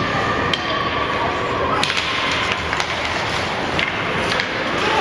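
Sharp clacks of ice hockey sticks and puck, several scattered over a few seconds, over the steady noise of an ice rink during play.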